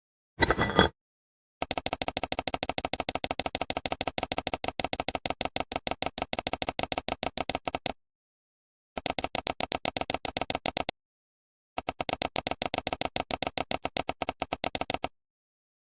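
A short loud burst, then a rapid, even clicking rattle in three stretches, broken off abruptly twice.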